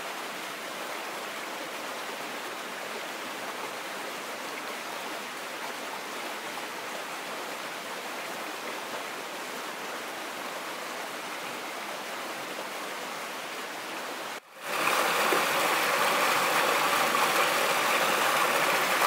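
Steady rush of running water from a stream. About two-thirds of the way in it breaks off and comes back louder and closer.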